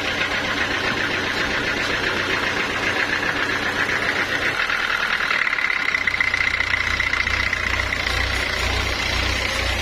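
Engine running steadily at a sawmill. About halfway through, a deeper pulsing throb comes in and a high whine grows stronger, as if the machine has been put under load.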